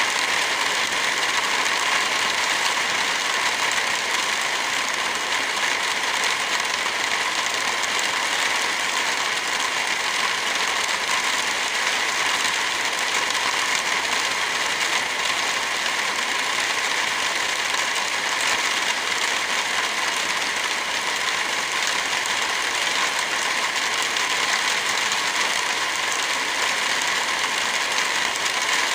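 Steady, even rain with a wood fire crackling.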